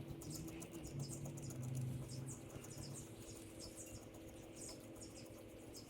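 Faint, quick high-pitched chirping throughout, over a low steady hum that eases after about three seconds.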